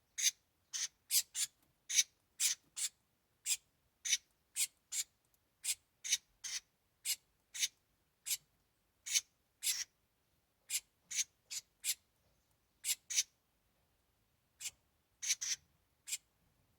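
Southern house wren calling in a string of short, raspy, high-pitched notes, roughly one to two a second, with a gap of a couple of seconds near the end.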